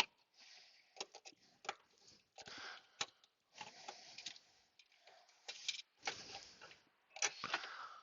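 Irregular sharp plastic clicks and short scraping rustles as the loosened body control module and fuse box are wiggled by hand, still caught on the wiring.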